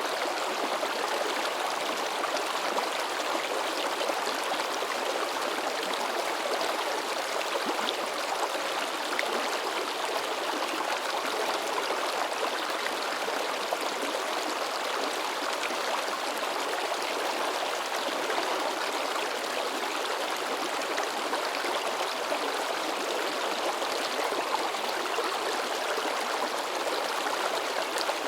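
A shallow mountain river babbling and splashing over rocks, a steady, even rush of water.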